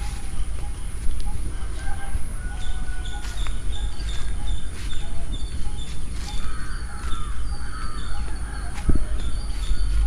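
Birds chirping and calling in short repeated notes over a steady low rumble.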